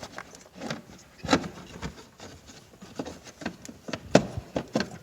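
Irregular light clicks and knocks of plastic ignition coil packs being pulled and handled on the engine, with the sharpest knock a little past four seconds in.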